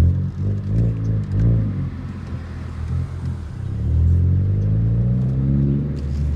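Car engine revving in a few short blips, then rising steadily in pitch as it accelerates for about two seconds, and settling into a steady drone near the end.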